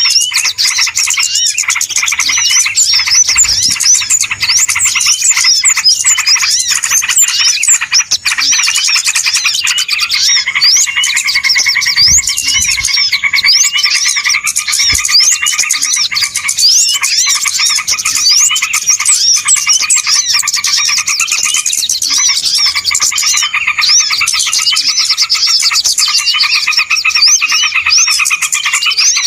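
A dense, continuous chorus of many small birds chirping and twittering at once, loud and unbroken. It is a noisy bird-lure (pikat) recording, meant to draw wild birds in.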